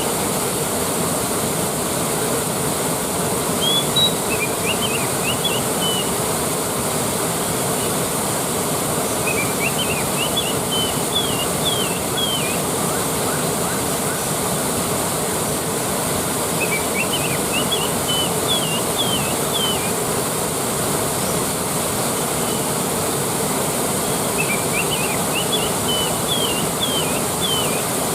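Waterfall rushing steadily, with a bird singing a short phrase of quick high chirps that repeats about every seven seconds.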